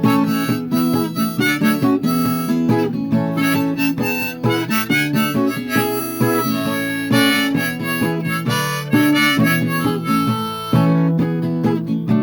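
Harmonica solo over strummed acoustic guitar: an instrumental break in a folk-blues song, with no singing.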